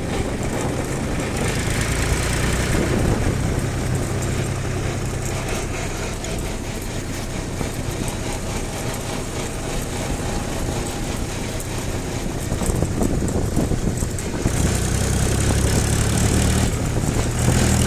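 Tractor engine running steadily, growing louder and heavier for the last few seconds.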